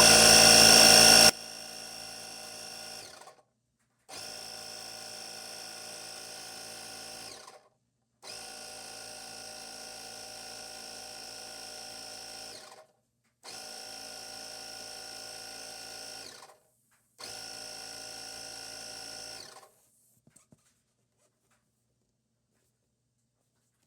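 Small portable electric air compressor running with a steady, buzzing motor whine. It is loud at first, drops much quieter after about a second, then runs in five stretches of a few seconds each with short breaks, and stops about 20 seconds in.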